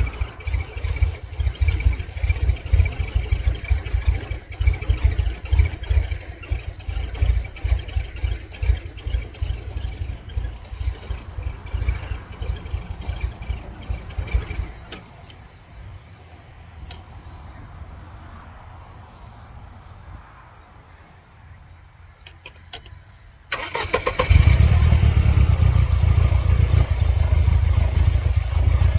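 1999 Mercedes-Benz C230 Kompressor's supercharged four-cylinder engine running with an uneven, pulsing beat, then going quiet about 15 seconds in. After a few clicks it starts again abruptly near the end and runs louder. The car has serious engine problems and a flashing check engine light.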